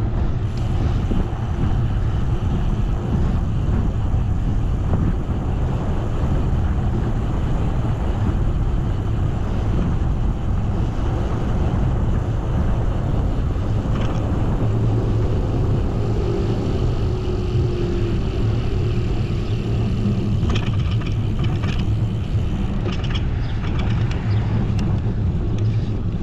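Steady wind rushing over the microphone of a camera riding on a moving bicycle, with road and tyre rumble underneath. A few light clicks come near the end.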